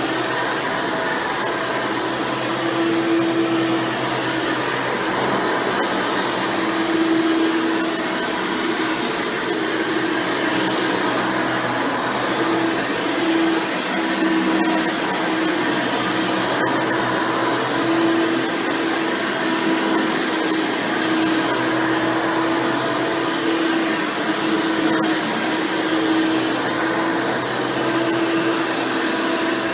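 Hoover Elite Supreme upright vacuum, fitted with a 20-blade fan motor and a single-row brush roll, running steadily while cleaning; its motor whine swells and dips every second or two.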